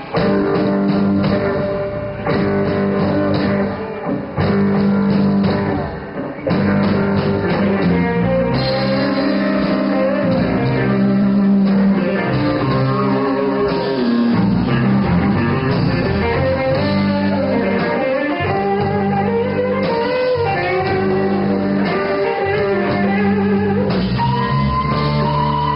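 Guitar-led rock music: electric guitar with steady low bass notes under a wandering melody line.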